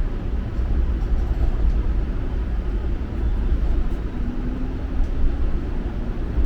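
Low, steady running rumble of a TTC Flexity Outlook streetcar, heard from inside the car, with a faint steady tone joining about four seconds in.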